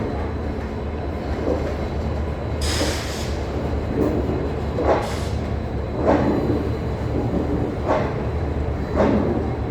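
Passenger express train pulling slowly out of a station: a steady rumble of the coaches rolling, with a clunk from the wheels over the rail joints about every second or two, and a brief hiss about three seconds in.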